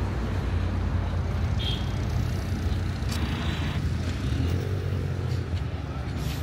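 A car engine running at idle: a steady low hum, with a short burst of hiss about three seconds in.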